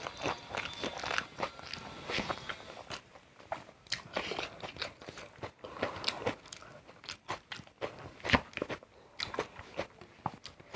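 A person biting and chewing crunchy food close to the microphone: a string of crisp crackling crunches, the loudest a sharp snap near the end.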